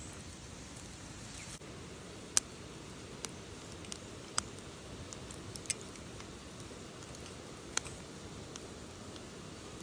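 Wood campfire burning: a steady low rush with several sharp crackling pops, the loudest about two and a half seconds in.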